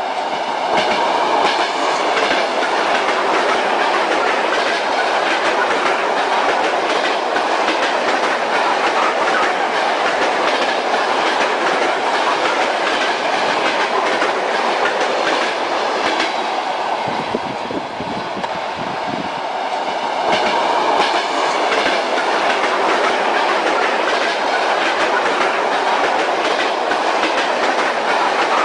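Passenger train running steadily, its wheels clicking and clacking over the rail joints with a continuous rumble of the carriage, heard from on board. For a few seconds past the middle the sound turns briefly duller before the clatter returns.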